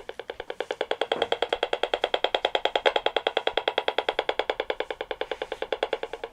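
RF meter's speaker sounding the Wi-Fi signal of an LG smart washing machine's built-in transmitter: a rapid, even train of buzzing clicks, about ten a second, getting louder about a second in.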